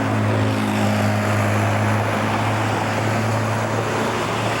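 A steady, low engine drone, as from a vehicle running close by, over a background of street noise.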